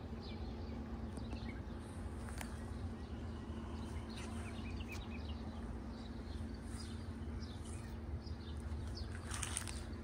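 Small birds chirping now and then, short high calls scattered through, with a brighter flurry near the end, over a steady low outdoor rumble.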